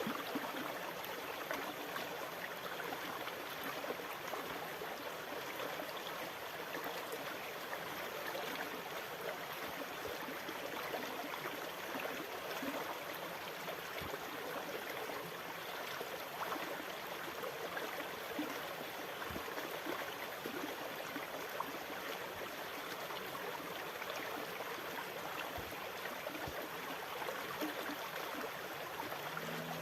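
Sea water washing in a steady, even rush, with faint small clicks and crackles scattered through it.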